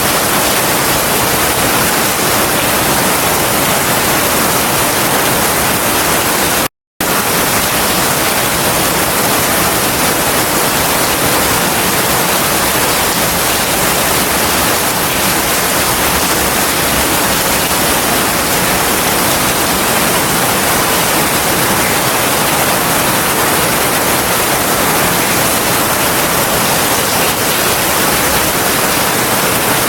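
Heavy rain falling steadily as an even, unbroken hiss, cutting out completely for a split second about seven seconds in.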